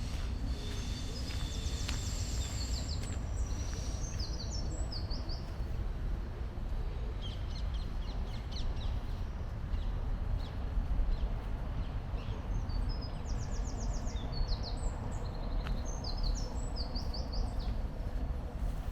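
Small songbirds singing, in repeated bursts of quick high chirps and trills, over a steady low rumble.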